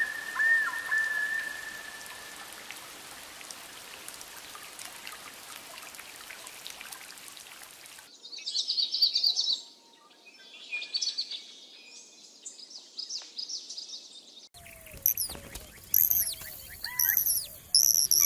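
Steady heavy rain, with a whistling call over it in the first couple of seconds. About eight seconds in it cuts to small birds chirping in quick high trills, and near the end to sharper bird calls made of short, falling notes.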